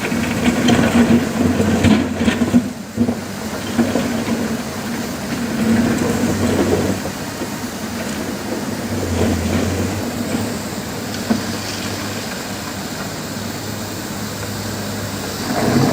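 Komatsu PC200-7 excavator's six-cylinder turbo diesel running with a steady hum, its sound swelling and easing several times as the machine works.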